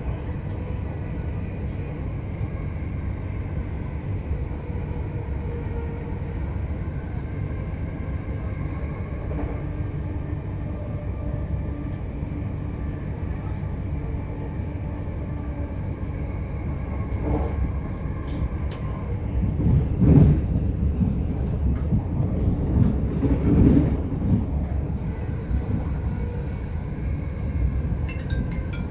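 Electric passenger train running along the track, heard from aboard: a steady low rumble of wheels on rails. Past the middle it swells for several seconds into heavier rumbling, with a few sharp clicks, then settles back.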